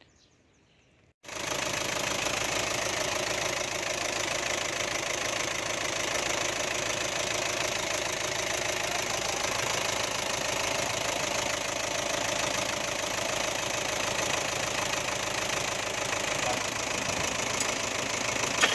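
A machine running steadily with a rough, knocking rattle. It starts abruptly about a second in and cuts off suddenly at the end.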